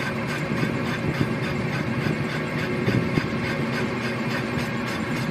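A vehicle engine running steadily, with a constant hum and travel noise and no change in speed.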